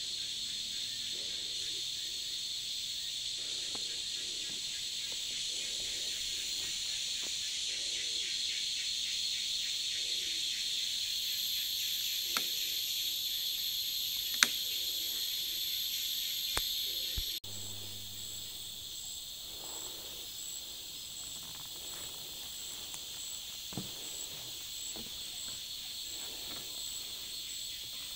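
Steady, high insect trill like a cricket's, the strange sound coming from inside a hole in the ground. There are a few sharp clicks, and about halfway through the sound drops suddenly in level at a cut.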